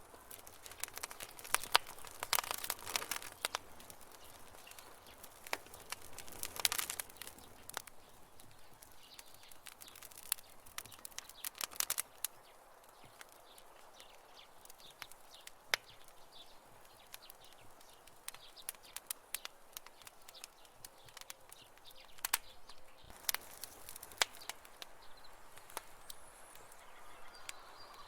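Campfire wood burning, crackling with irregular sharp pops that come in clusters, the loudest a couple of seconds in and again around ten to twelve seconds in. A few faint bird chirps sound high above it.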